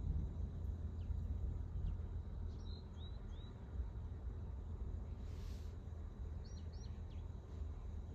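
Steady low rumble of outdoor ambience, with a small bird chirping short notes: three about three seconds in and a few more past the middle.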